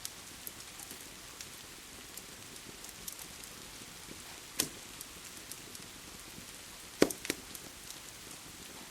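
Steady rain hiss with a wood fire crackling over it: scattered sharp pops, two louder ones at about four and a half and seven seconds in.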